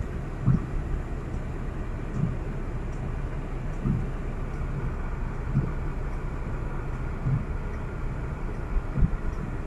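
Steady low rumble of a vehicle in motion, with a soft low thump repeating roughly every second and a half.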